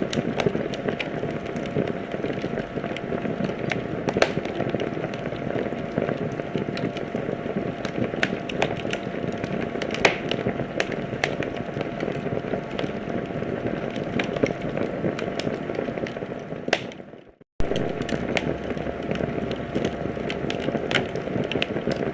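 Wood fire in a fireplace crackling steadily over a low rushing hiss, with frequent sharp pops. About three-quarters of the way through it fades out to silence for a moment and then starts again abruptly.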